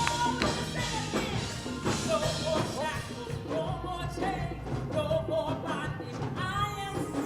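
Live worship music with a band playing and voices singing between the sung phrases of the song.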